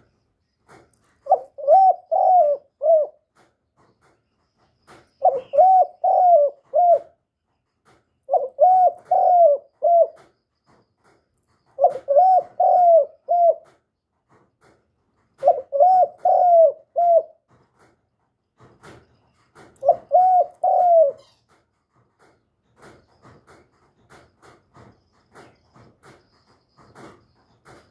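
Young male spotted dove cooing: six phrases of four or five coos each, about one phrase every four seconds, stopping about 21 seconds in. Faint scattered clicks and ticks follow.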